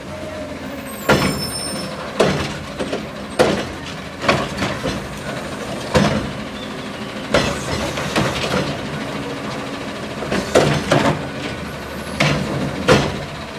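Garbage truck engine running steadily while about a dozen loud bangs and clunks come at irregular intervals, typical of a trash can being tipped and knocked against the truck's hopper. A brief high-pitched squeal sounds about a second in.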